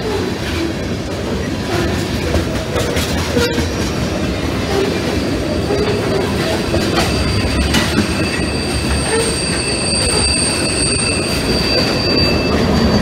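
A freight train of tank cars rolling past, a steady rumble of wheels on rail with some clickety-clack. About halfway through, a high steady wheel squeal joins in.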